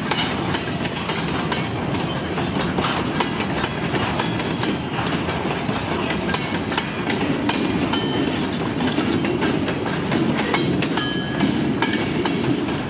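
Freight cars rolling steadily past: a continuous low rumble with steel wheels clacking over the rail joints and a few brief high wheel squeals.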